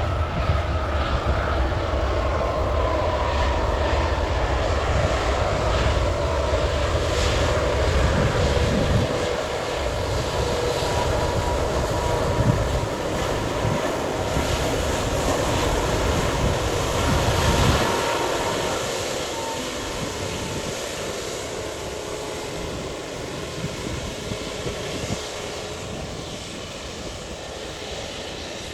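Airliner engines passing close by: a heavy rumble with a whine that slowly drops in pitch, loud for most of the time, then fading away over the last ten seconds or so.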